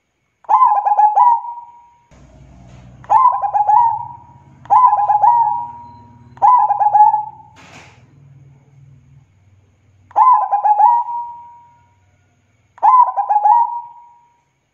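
Zebra dove (perkutut) cooing: six phrases, each a quick stuttering run of notes that ends in a held, ringing coo. A faint low hum sits under the middle calls, and there is a brief noisy burst a little after halfway.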